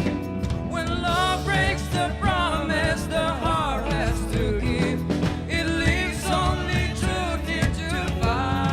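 A band playing live, with guitar strumming, and voices singing from about a second in.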